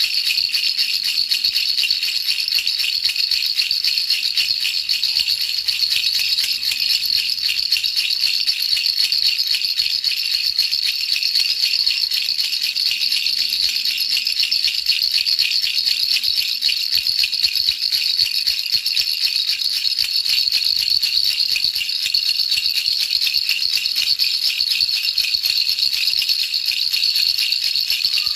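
Baby rattle shaken quickly and without a break: a steady, hissy rattling of small beads.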